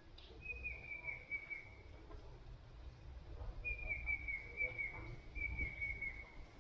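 A bird calling three times, each call a drawn-out trilling whistle that slides slightly down in pitch. The first call comes about half a second in, and the other two come close together in the second half.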